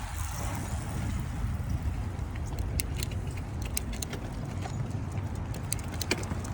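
Steady low rumble of wind and road noise while riding a bicycle, with a run of sharp irregular clicks starting about two and a half seconds in.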